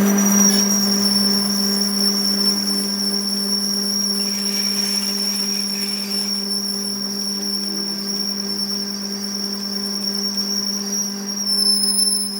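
A workshop machine running steadily, with a low hum and a constant high-pitched whine above it.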